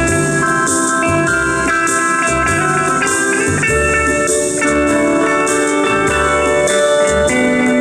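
A live band plays Hawaiian-style music: a steel guitar melody over bass notes and a steady drum and cymbal beat.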